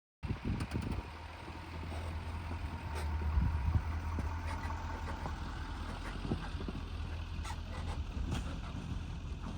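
A vehicle engine running steadily with a low hum, with scattered clicks and knocks over it.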